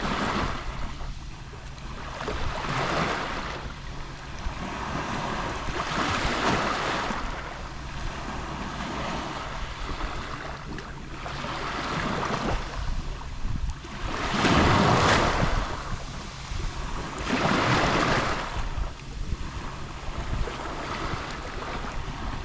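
Small Mediterranean sea waves lapping on the shore: each wash swells and fades every few seconds, the strongest about 15 s in, over a steady low rumble.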